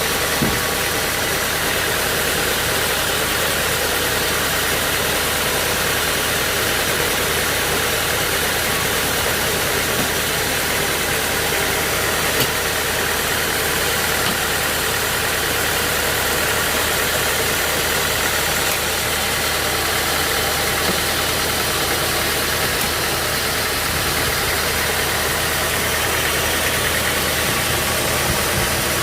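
A sawmill's engine running steadily at an even speed, a constant mechanical hum with a hiss over it.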